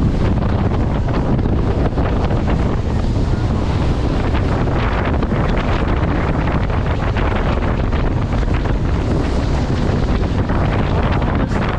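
Wind buffeting the microphone aboard a boat under way at sea: a steady, loud rush with a heavy low rumble and no breaks.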